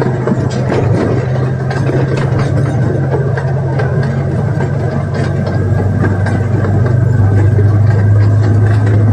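Miniature zoo train running, a steady engine drone with a low hum that drops slightly in pitch and gets a little louder about seven seconds in, with scattered sharp clicks over it.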